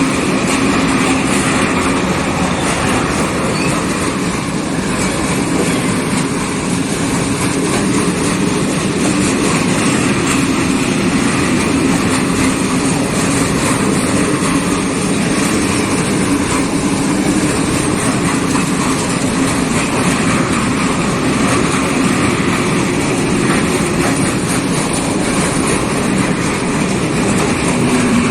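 Train rolling past on the rails, a loud, steady noise of wheels and wagons that does not let up.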